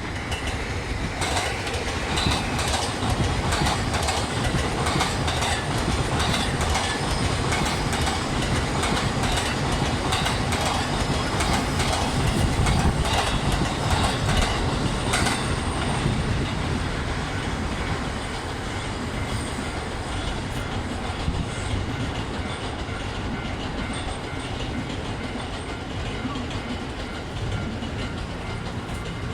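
Tobu 30000 series electric train running on the track, its wheels clicking over rail joints, with the clicks densest in the first half, then a steadier, slightly quieter running sound.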